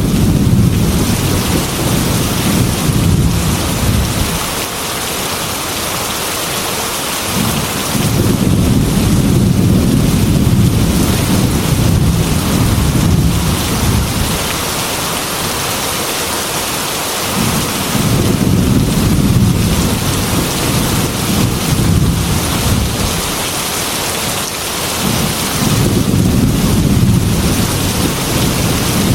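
Heavy rain beating steadily on a glass window, with rolling thunder rumbling low in four long swells that build and fade.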